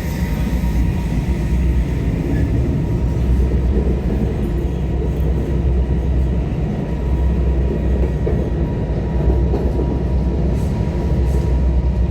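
Brno tram running along its track, heard from inside the car: a steady low rumble of wheels on rail and motor, with a faint steady whine above it.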